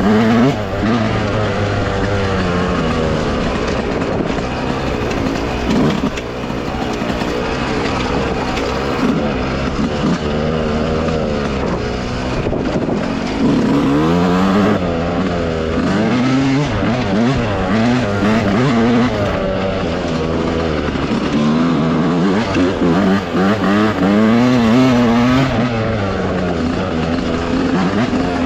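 Dirt bike engine running on a trail ride, its pitch rising and falling again and again with the throttle.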